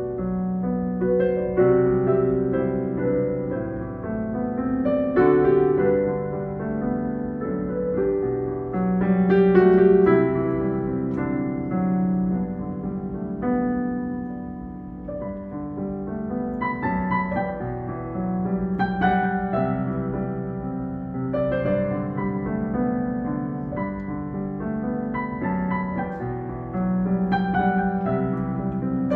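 Solo piano playing slow music in held chords, a closing postlude after the benediction.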